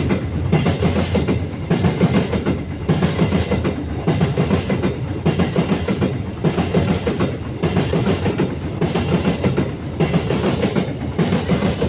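Coal train wagons rolling past, their wheels clattering over the rail joints in a steady repeating rhythm, about one surge every second or so.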